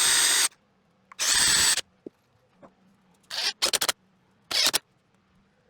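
Handheld power tool run in short bursts: two of about half a second early on, then three shorter spurts between about three and a half and five seconds in.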